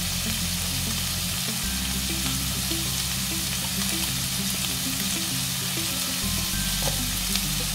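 Minced chicken with onion and spices sizzling steadily in a hot frying pan.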